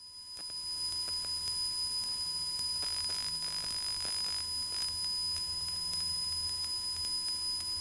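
Cessna 172's engine running in flight, heard as a faint low hum through the headset intercom feed, under two steady high-pitched electrical whines.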